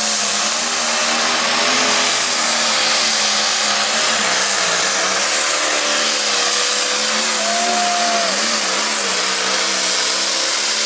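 Light pro stock pulling tractor's turbocharged diesel engine running flat out under load, a loud, steady sound whose pitch wavers slightly.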